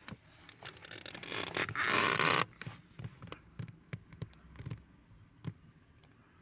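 Handling of a removed car heater blower motor and its fan: a scraping rush of noise about a second in, lasting about a second and a half and stopping abruptly, then scattered light clicks and knocks.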